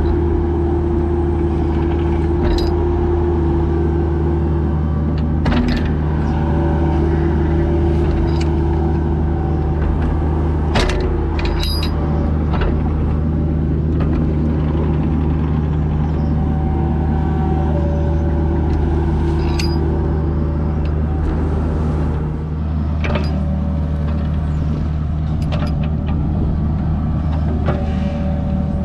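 Mini excavator digging: the diesel engine runs steadily under load while the hydraulics shift in tone, and there are scattered sharp metallic clanks and knocks from the bucket and linkage.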